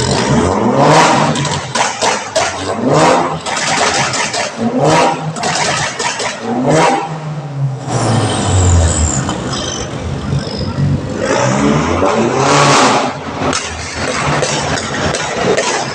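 BMW M car's engine revving repeatedly through its exhaust, a series of rising pitch sweeps about every two seconds, with a deeper steady drone around the middle and one more strong rev near the end.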